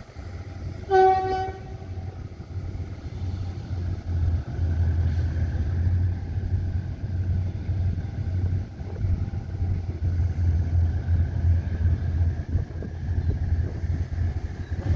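Freight train's diesel locomotive horn gives one short blast about a second in. Under it and after it, the passing boxcars keep up a steady low rumble on the rails.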